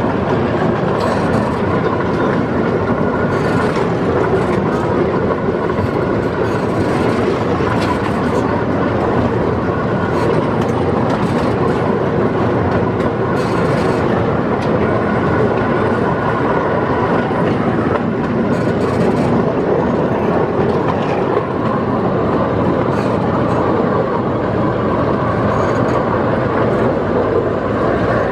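Chance Morgan miniature park train running steadily along its track, a continuous rumble of the drive and the wheels on the rails with occasional light clicks.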